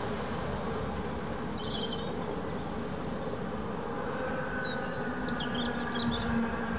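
Low, steady rumble of an Irish Rail 8100 class DART electric train running away into the distance, with small birds chirping briefly a few times. A steady low hum grows louder near the end.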